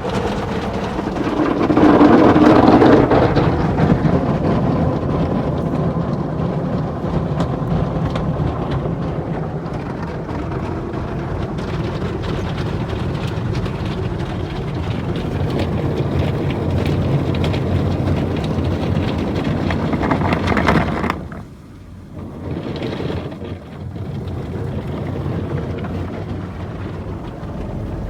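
Belanger FreeStyler automatic car wash running: a steady rush of water spray and machinery. It is loudest a couple of seconds in and dips briefly about three-quarters of the way through.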